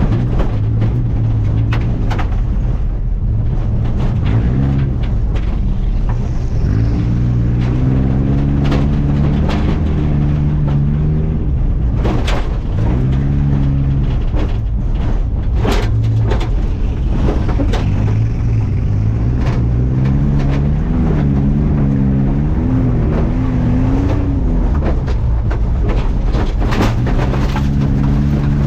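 Off-road truck engine revving up and down in repeated surges over a steady low rumble, with scattered sharp knocks and clatter.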